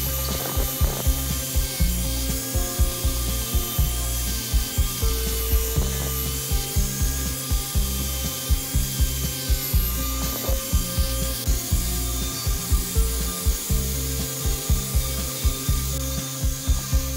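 Electric angle grinder with a sanding attachment running against a turned wooden vase, sanding the wood smooth, its motor whine wavering as it is pressed on. Background music with a steady beat plays underneath.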